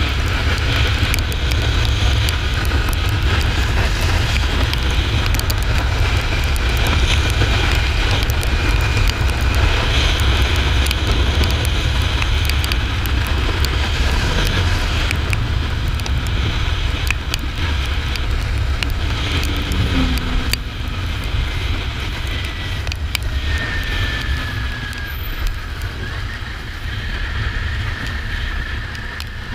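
Kawasaki Ninja 400 parallel-twin engine running on the move, with a steady low rumble of engine and wind noise that eases slightly in the last third.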